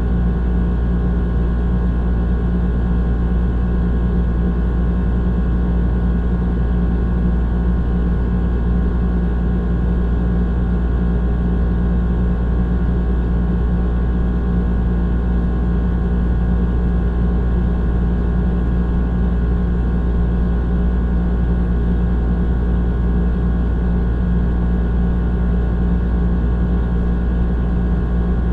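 Old air conditioner running steadily: a deep, even hum with a droning whir over it that doesn't change.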